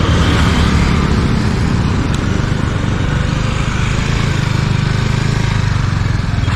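Motorcycle engine idling at a standstill, a steady low drone.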